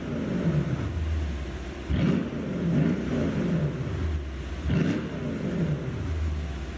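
Mercedes-AMG S63's twin-turbo V8 blipped three times from idle, each rev falling back with the crackle and pops of a pop-and-bang exhaust tune, then settling to a low idle.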